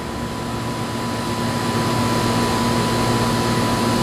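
Older Bryant heat pump running in its defrost cycle: a steady mechanical hum with a hiss, growing louder over the first couple of seconds and then holding steady.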